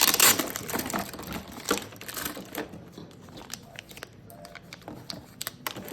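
Plastic packaging of a Beyblade X random booster crinkling as it is handled, loudest at the start, with many small clicks and rustles of the plastic parts being taken out.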